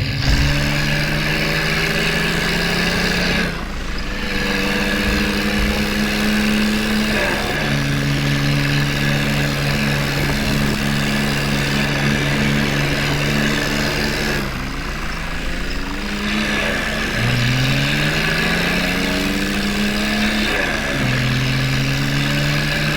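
Diesel engine revving hard under heavy load, straining to pull through mud, its pitch climbing in several long surges that each drop back before rising again.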